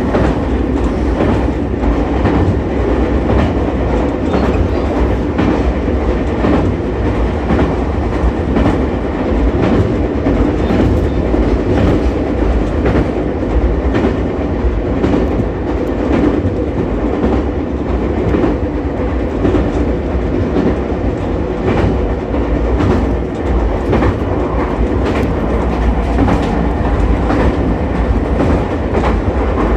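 Ichibata Electric Railway 7000-series electric railcar running along the line, heard from inside the car: a steady rumble of wheels on rail with frequent irregular clicks from rail joints.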